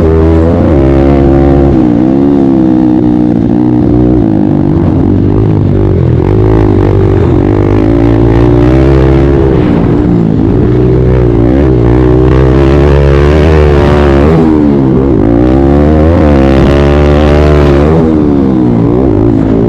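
Kawasaki KLX140 pit bike's small single-cylinder four-stroke engine under racing throttle, its pitch rising and falling over and over as the rider opens and closes the throttle and shifts. It runs loud and unbroken.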